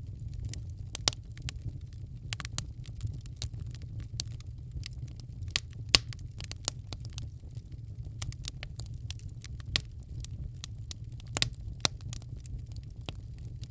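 Wood fire crackling in a fireplace: irregular sharp pops and snaps over a steady low rumble of the flames, with one louder pop about six seconds in.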